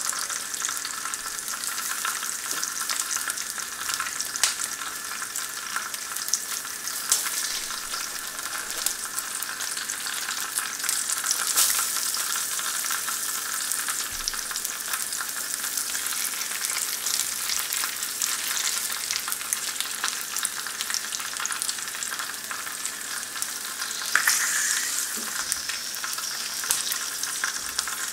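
Bacon, black pudding and eggy bread frying in a carbon steel pan: a steady sizzle with frequent spitting crackles. A wooden spatula moves the food, and the sizzle flares up briefly about a third of the way in and again near the end.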